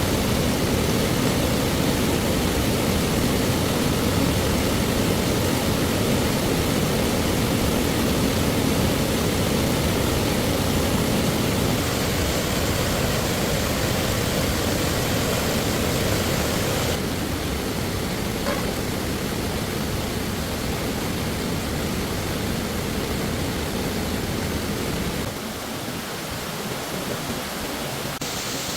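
Steady rushing of a flowing stream, dropping abruptly to a quieter, thinner rush about two-thirds in and again near the end.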